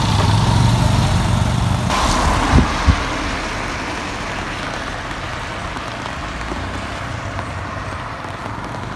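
A motor vehicle's engine running close by for the first few seconds, then fading into steady street noise, with two short thumps about two and a half seconds in.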